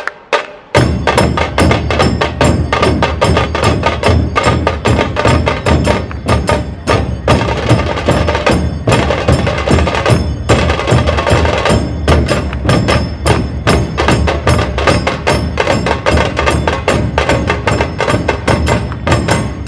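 Dhol tasha ensemble drumming: rapid, sharp tasha strokes over heavy, booming dhol beats. After a short dip just under a second in, the full group comes in loud and keeps up a fast, dense rhythm.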